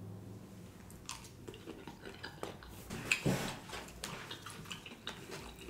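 Close-miked chewing with small wet clicks and smacks of a man eating a forkful of food, with a louder mouth sound about three seconds in.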